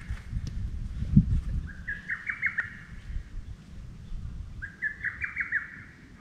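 A songbird singing a short phrase of quick notes that climb in pitch, twice, about three seconds apart, over a low steady rumble.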